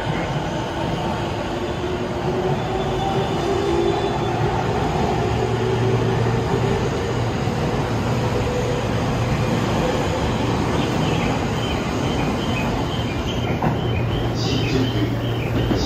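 Tokyo Waterfront Area Rapid Transit 70-000 series electric train pulling out of an underground station, its traction motors whining and wheels running as it gathers speed, with a low steady hum from about five seconds in. Short high wheel squeals come in toward the end.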